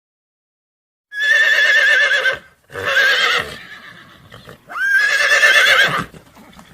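An animal calling three times, each a high, quavering cry of about a second.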